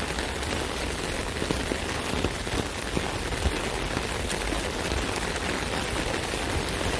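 Steady rain pattering on an umbrella canopy, a continuous hiss with scattered louder drop hits.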